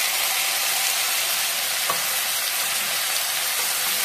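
Chopped tomatoes and onions sizzling in hot oil in a frying pan as they are stirred with a wooden spatula: a steady hiss, with one light knock about two seconds in.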